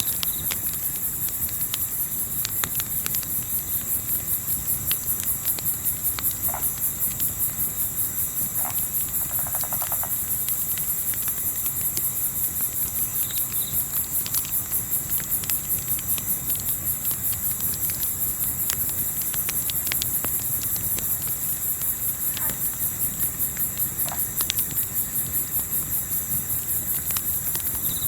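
Night insect chorus: crickets trilling continuously in a fast, even pulse, with scattered crackles and pops from a wood campfire.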